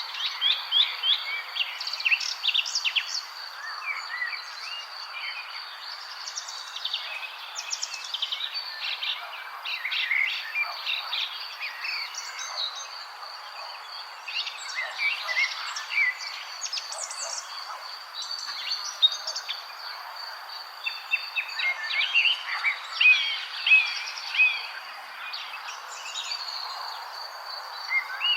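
A chorus of songbirds chirping and trilling over one another, many short calls in quick succession, over a steady background hiss with a thin, unbroken high tone running underneath.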